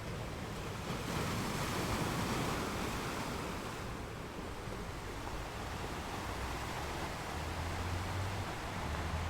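Sea waves washing ashore: a wave surges up about a second in and slowly falls away, and a low rumble comes in near the end.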